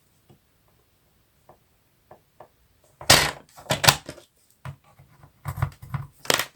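Cardstock being handled and marked on a craft table: a few faint taps, then, from about three seconds in, a run of short scraping and rubbing strokes of paper on the work surface.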